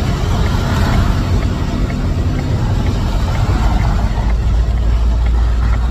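Steady low rumble of engine and road noise inside a moving vehicle's cab.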